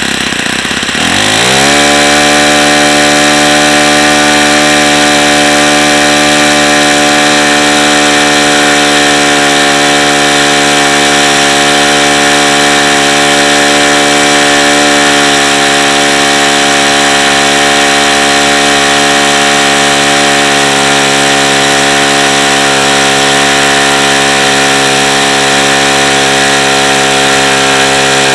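Saito FA-45 four-stroke model glow engine revving up sharply about a second in, then holding a steady high-speed run. Its owner says the engine has very bad bearings and is a tired engine.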